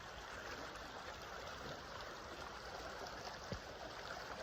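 Small stream running steadily over its bed, an even rush of water.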